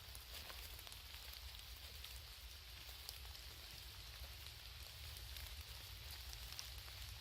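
Rain falling steadily: a soft, even hiss with a few faint scattered drop ticks.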